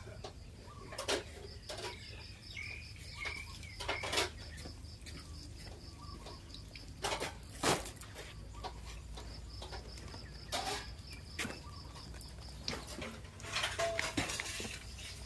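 Scattered knocks and clatter of kitchen pots, dishes and utensils being handled and moved, with bird chirps and a faint high pulsing chirr in the background.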